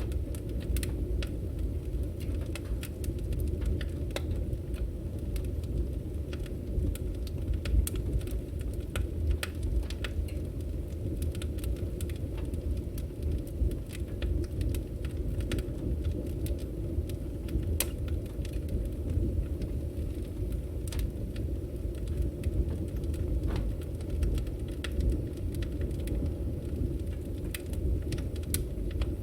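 Burning firewood crackling, with frequent sharp pops at irregular moments over a steady low rumble.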